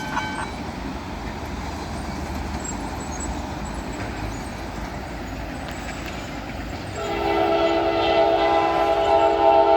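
Crossing bell pulsing briefly and stopping, then an approaching CSX freight locomotive's rumble. About seven seconds in its air horn begins, a loud steady chord of several notes held to the end.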